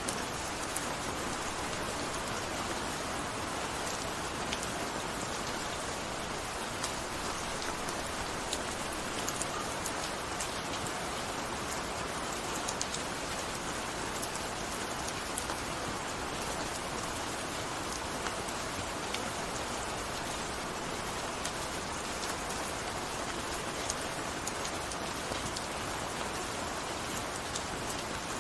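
Steady gentle rain falling, an even hiss with scattered individual drop ticks.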